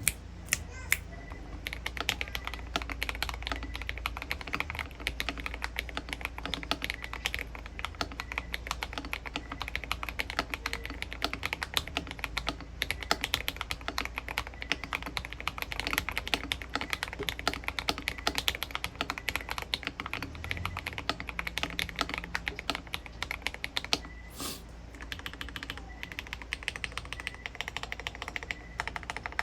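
Keychron V1 mechanical keyboard with lubed Akko V3 Cream Yellow linear switches, SA profile keycaps and foam, tape and polyfill mods being typed on fast, a steady stream of clacky keystrokes. A few single presses open it, and the typing pauses briefly about three-quarters of the way through.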